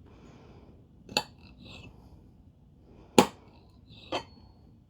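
A kitchen utensil knocking against a bowl three times while chopped hard-boiled eggs are mixed, each knock a short clink.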